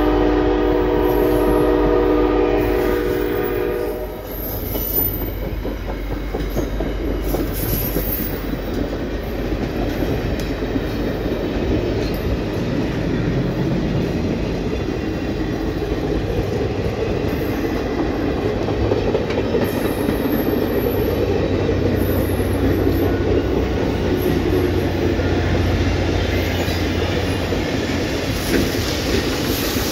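Locomotive air horn sounding a chord of several tones, cutting off about four seconds in. Then passenger cars rolling past with steady wheel-on-rail rumble and clickety-clack over the rail joints.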